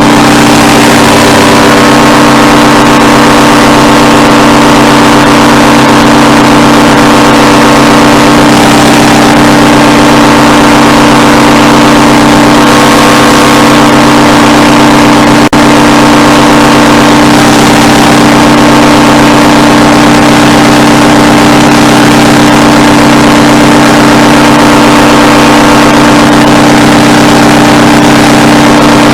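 Paramotor engine and propeller running steadily in flight, loud and close, with slight changes in engine note about nine and seventeen seconds in.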